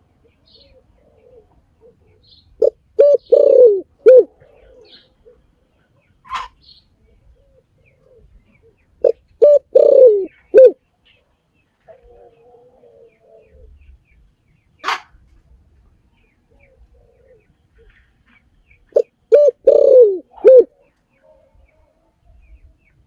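Spotted dove cooing in three phrases about seven to ten seconds apart. Each phrase is a few short coos around one longer, falling coo. Faint high chirps of small birds and two brief sharp sounds fall between the phrases.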